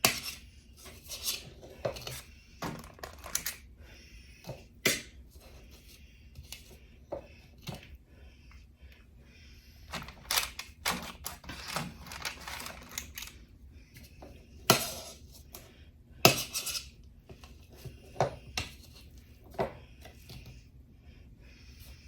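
A metal cookie scoop clicking and scraping against a bowl in irregular knocks and taps as portions of minced garlic are scooped out, with two louder knocks near the middle.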